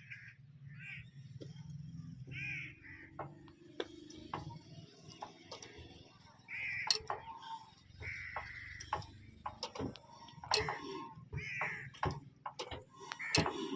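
Crows cawing again and again in short calls. Under them runs a low, steady hum that fades about halfway through, and scattered sharp clicks are heard.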